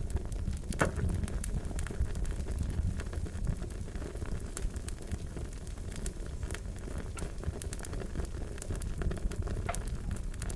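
Wood fire crackling: a steady low rumble of flames with frequent sharp pops and snaps scattered throughout, a louder pop about a second in.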